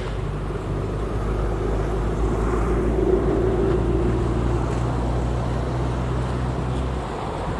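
A motor vehicle's engine running as it goes by, a steady low hum that is strongest about three seconds in and drops away suddenly about seven seconds in.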